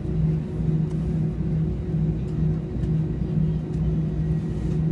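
Airliner cabin noise: the steady drone of the jet engines and cabin air, with a constant low hum and rumble.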